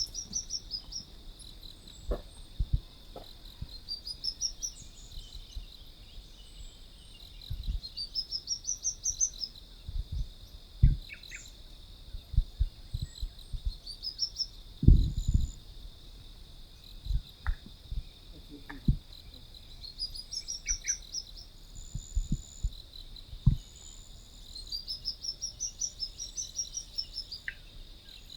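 Sunbird singing: about six short phrases of rapid, high, run-together notes that climb and then drop, each lasting about a second, over a steady high insect drone. Scattered low thumps come through, the loudest about halfway through.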